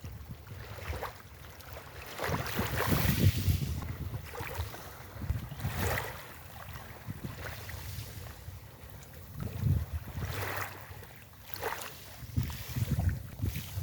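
Sea waves washing onto a beach, with surges of hiss about every three to four seconds, the strongest about three seconds in. Wind buffets the microphone with a gusty low rumble underneath.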